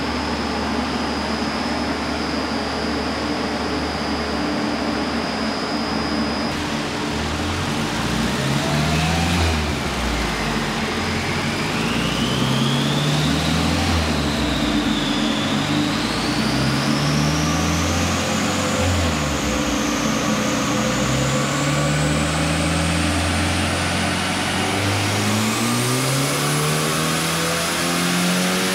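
Car engine on a chassis dyno, idling at first and then run up through the gears. The engine note climbs and drops back several times, and a high whine climbs overall through the run.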